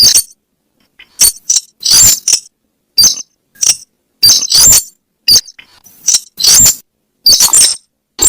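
Recorded lure call of the weris (slaty-breasted rail): short, sharp, high clinking notes given in quick groups, about eight bursts separated by brief silences.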